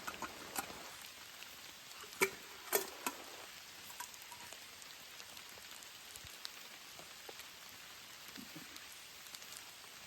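Steady rain hiss, with a few sharp ticks and taps, the loudest two about two and three seconds in.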